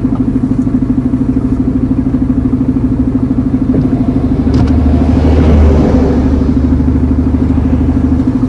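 Iveco Eurocargo lorry's diesel engine running, heard from inside the cab as a steady drone. About halfway through, a deeper rumble joins for a few seconds.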